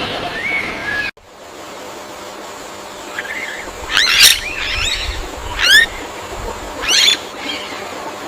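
Bird calls over a steady background hiss. The sound cuts off abruptly about a second in, then a bird gives four or five short, sharp, sweeping chirps.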